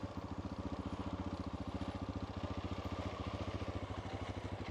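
Honda Dominator's single-cylinder four-stroke engine running at low, steady revs, an even rapid beat of firing pulses.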